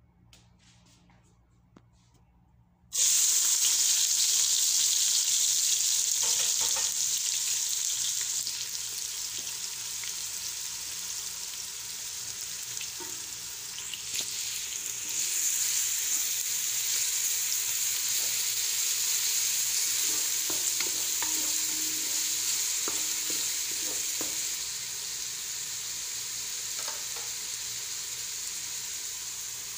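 Chopped onion sizzling in hot vegetable oil in a pot. The sizzle starts suddenly about three seconds in and grows louder again about halfway, with a wooden spoon stirring and lightly knocking against the pot.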